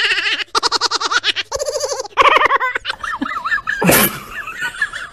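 A person laughing hard in rapid, pulsing bursts for about three seconds. After that, fainter wavering tones continue, with a short loud burst of noise about four seconds in.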